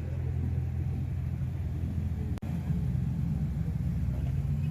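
Car engine idling with a steady low exhaust rumble, cut off for an instant about halfway through.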